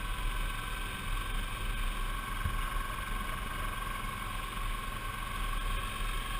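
Suzuki V-Strom 650 V-twin motorcycle cruising at a steady speed, its engine running steadily under a rush of riding wind.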